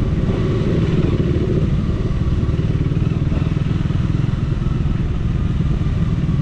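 Triumph Speed 400's single-cylinder engine running steadily while the bike is ridden, its exhaust pulses even with no revving up or down.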